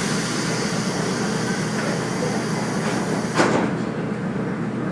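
Train interior with the steady hum of the railcar. A hiss of compressed air starts suddenly, runs about three and a half seconds and ends with a single thud, as the train's sliding doors close.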